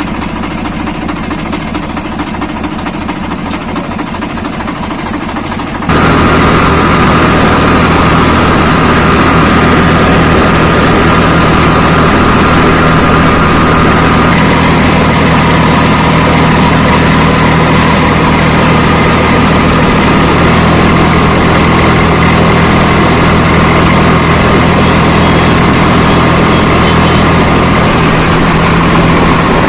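Swaraj 855 FE tractor's diesel engine running steadily while working a rotavator. About six seconds in, the sound jumps sharply louder and stays loud.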